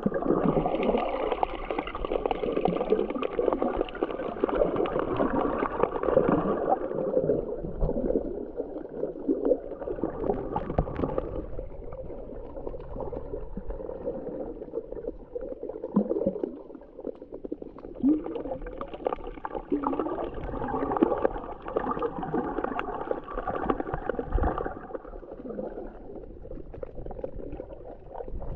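Muffled gurgling and sloshing of sea water heard underwater, as through a waterproof camera housing. It swells and fades, louder at the start and again past the middle.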